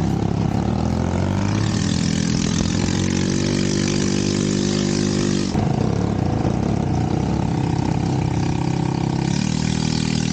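Off-road buggy engine running, its pitch rising slowly, then changing abruptly about halfway through to a steadier engine note.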